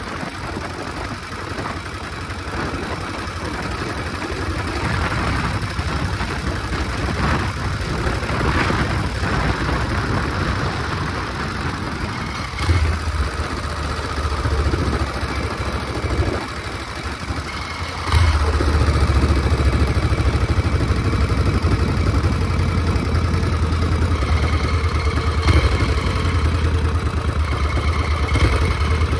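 A 1969 Harley-Davidson Shovelhead's air-cooled V-twin runs on the move. The engine note gets louder briefly about twelve seconds in, then steps up and stays louder from about eighteen seconds in as the throttle opens.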